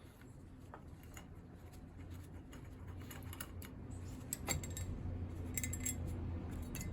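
Faint, scattered light clicks and clinks of small metal boiler parts being handled, over a low steady hum.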